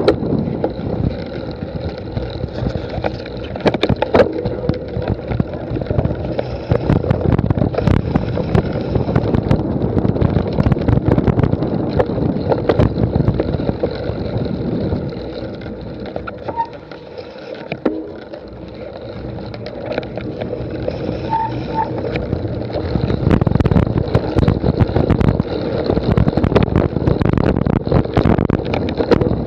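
Wind buffeting the microphone with a steady rumble, full of small knocks and rattles; it eases briefly a little past the middle.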